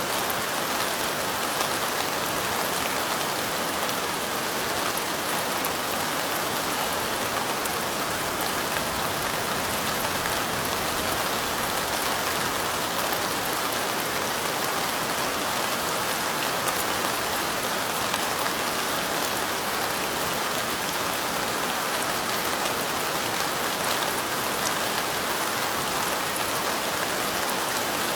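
Steady light rain falling, many small drops ticking on a surface in an even, unbroken hiss.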